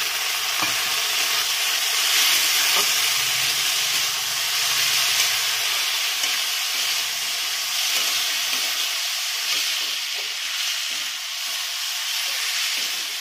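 Red lentils, potato and onion frying in hot oil in a karahi: a steady sizzle, with the flat spatula scraping and tapping the pan as the mix is stirred. The raw dal is being fried in the oil before any water is added.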